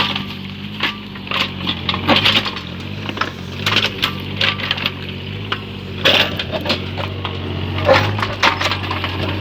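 Mini excavator's engine running steadily while its bucket digs and scrapes into stony ground, with many irregular clacks and rattles of stones and metal.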